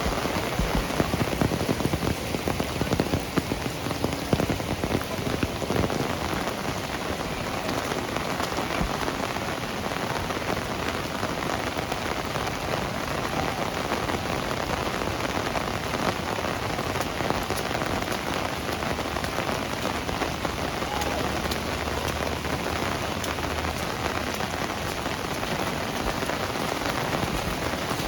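Heavy rain falling steadily, a dense patter of drops striking surfaces, a little more uneven in the first few seconds.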